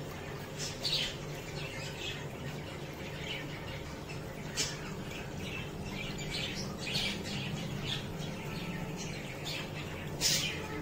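Birds chirping and squawking in short, scattered calls, the loudest about a second in, near the middle and just before the end, over a steady low hum.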